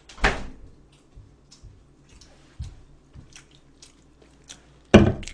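Close-miked eating sounds: chewing and small mouth clicks, with two louder short bursts, one just after the start and one near the end.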